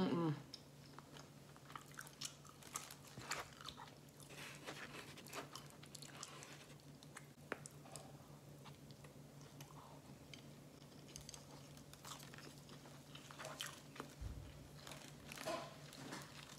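A person biting and chewing sushi rolls, with scattered soft mouth clicks, over a faint steady low hum.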